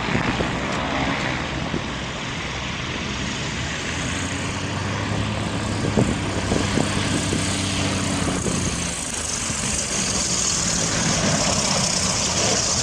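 Aircraft engine drone: a steady low hum under a broad rushing noise, with the hum strongest in the middle stretch.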